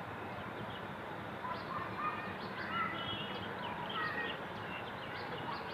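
Birds chirping in the background: scattered short chirps and brief whistles over a steady low hiss.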